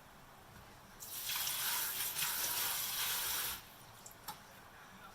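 Kitchen tap running into the sink for about two and a half seconds, then shut off abruptly, followed by a couple of light clicks.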